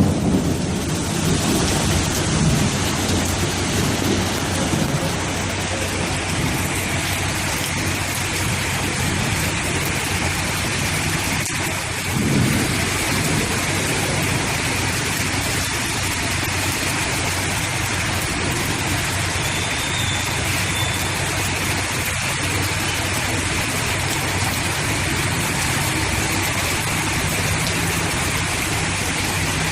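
Heavy rain pouring steadily, with a low rumble of thunder dying away at the start and a steady low hum underneath.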